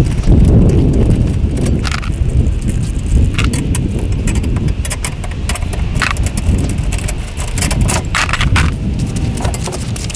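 Strong wind buffeting the microphone in an irregular rumble, with many sharp rattles and clicks over it.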